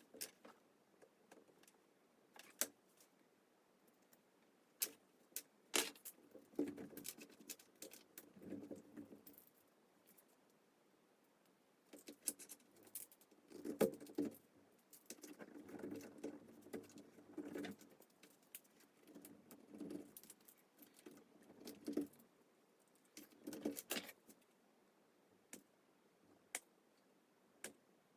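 Hands working with small craft materials: scattered sharp clicks and taps with spells of rustling, broken by quiet gaps.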